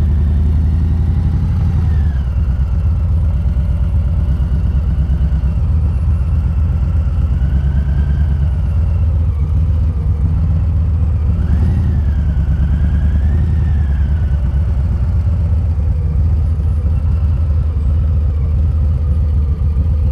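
Harley-Davidson V-twin motorcycle engine running steadily, a deep even low rumble without breaks.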